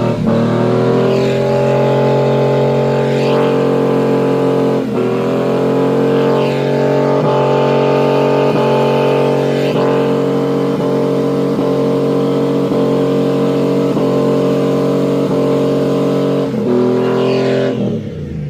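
V6 pickup engine through a straight exhaust stack, held at high revs for a long burnout, with brief dips in pitch every second or so before it falls off near the end.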